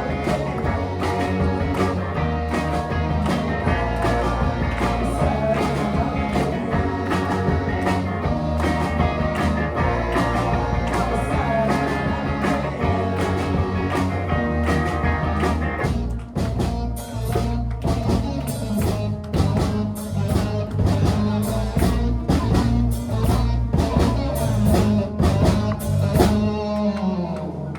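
Rock band playing with electric guitar, bass and drums, a full driving section that thins out about sixteen seconds in before building again toward the end of the song.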